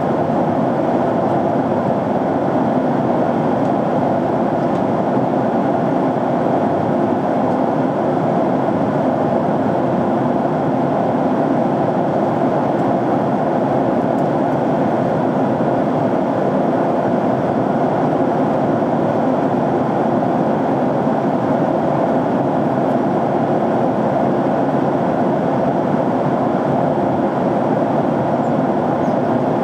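Jet airliner cabin noise in flight: a steady, even rush of engine and airflow sound heard from a window seat.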